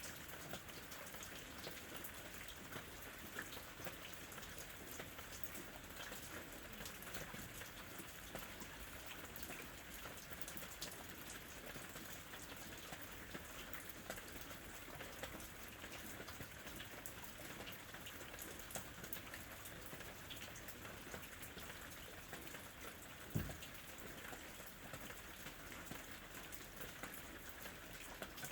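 Steady rain falling, with many small drops ticking on a surface. One brief low thump sounds near the end.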